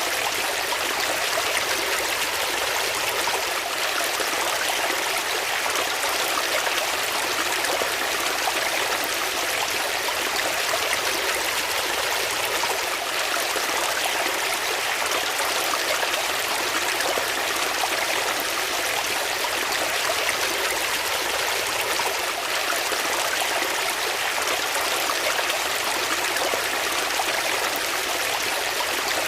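Water flowing steadily, a continuous even rush and trickle like a stream.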